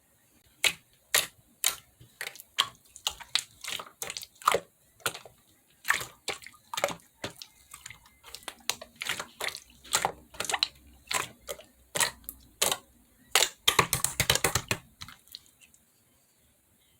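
Green clear slime being pressed and squeezed by hand, making a run of sharp, wet pops and clicks about twice a second, with a quick dense flurry of them near the end.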